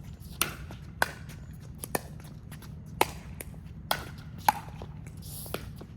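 Pickleball rally: paddles striking the hollow plastic ball with sharp pops, about one a second, with a few fainter taps between.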